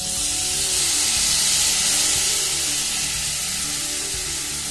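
Sweet corn kernels poured into hot ghee in a pressure cooker, setting off a loud sizzle that swells over the first second or two and then slowly dies down.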